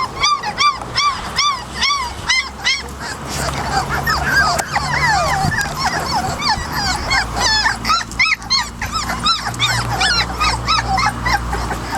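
Several 3½-week-old puppies whimpering and crying: short, high, arched yelps in a quick string of about three a second, then many overlapping cries from several pups. The pups are on their first outing outside and unsettled by it.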